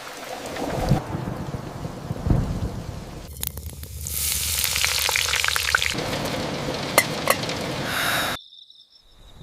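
Rumbles of thunder, then heavy rain hissing with scattered drop clicks, cutting off suddenly near the end.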